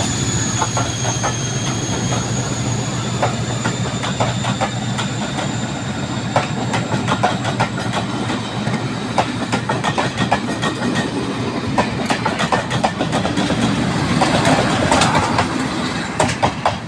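Preserved British Rail Class 56 diesel locomotive pulling its train away: a low engine note under a high wheel squeal that fades over the first few seconds, then a run of sharp clicks as the wheels of the locomotive and coaches pass over rail joints, growing busier near the end.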